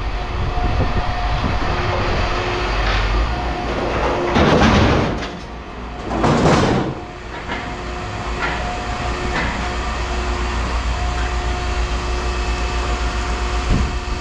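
Steady machinery hum, with two loud rushing, scraping swells of noise about four and six seconds in.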